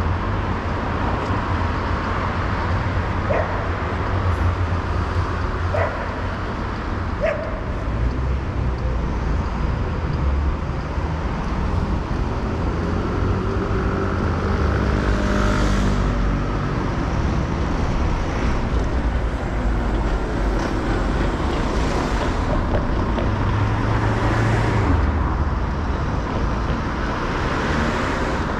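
City street traffic: a steady low rumble with cars passing one after another, their tyre hiss swelling and fading several times in the second half. A dog barks a few times in the first several seconds.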